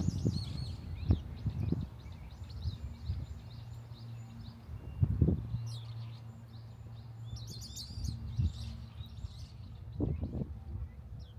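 Small birds chirping and twittering repeatedly, over irregular low thumps and rumble on the microphone, the loudest about halfway through, with a faint low steady hum in the middle.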